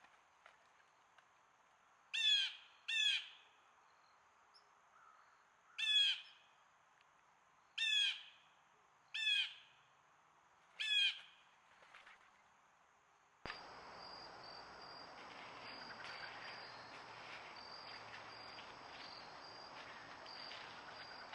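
A bird giving short, harsh calls, six of them one to two seconds apart. About two-thirds of the way through, the sound cuts abruptly to a steady outdoor hiss with a faint, broken high insect trill.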